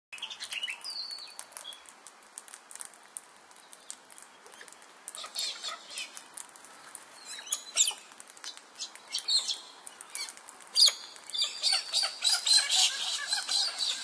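Wild birds calling: scattered short chirps and sharp calls, turning into a dense run of rapid chirping near the end.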